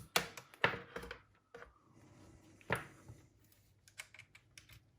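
Light plastic clicks and knocks from handling a Panasonic RQ-S15D cassette walkman: a quick cluster in the first second, a sharper knock near the middle, then a few faint ticks.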